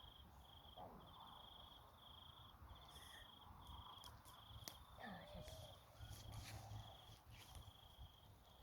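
An insect chirps in a steady, even rhythm of short buzzy trills, about one a second, with a few faint clicks now and then.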